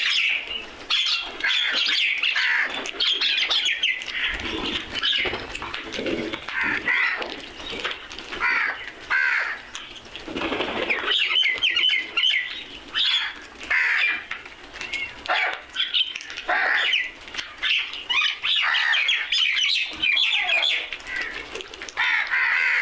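A flock of crows calling over one another, with other birds chirping among them, in a dense, continuous chorus of harsh, repeated calls.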